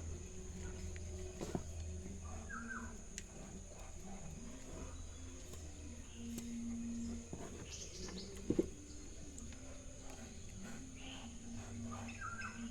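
Faint background with a few short bird chirps over a steady electrical hum and a high whine, with a couple of light clicks.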